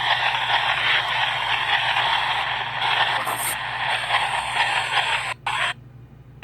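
PXB 07 spirit box sweeping through radio stations: a steady rush of radio static with brief fragments, cutting out suddenly near the end as the sweep mutes between stations.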